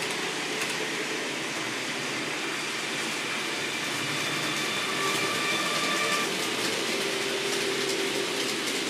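Class 220 Voyager train running past: a steady rushing rail noise, with a faint whine coming in about halfway through.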